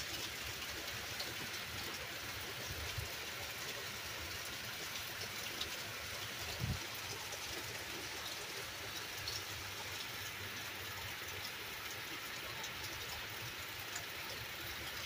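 Steady rain falling, with scattered small drip ticks. A brief low thump comes about seven seconds in.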